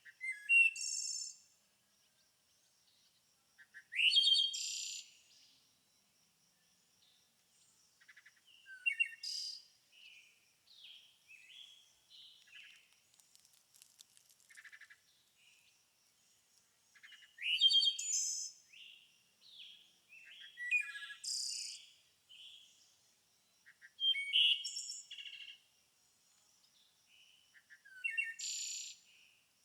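Songbirds singing: loud, bright, high-pitched phrases about every four seconds, with softer chirps between them and a faint steady high note underneath.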